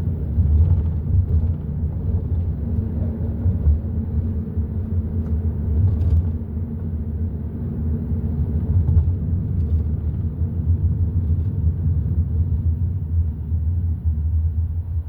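Hyundai i30 N Line on the move: a steady low rumble of engine and tyre noise.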